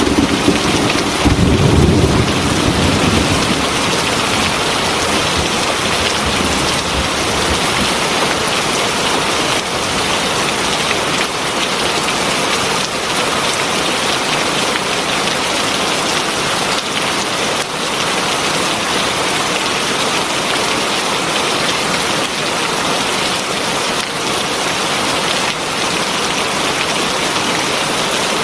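Heavy rain falling steadily. A low rumble of thunder dies away over the first few seconds.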